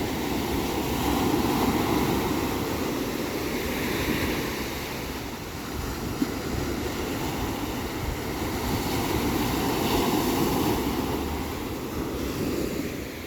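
Ocean surf washing ashore, rising and falling in several swells. A brief click sounds about six seconds in.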